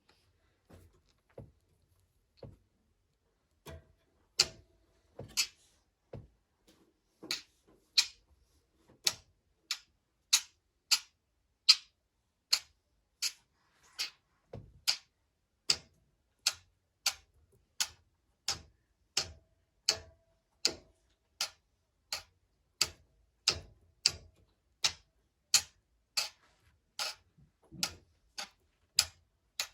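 Sharp ticking clicks at a steady pace of about three every two seconds, faint and sparse at first and then loud and regular from about four seconds in.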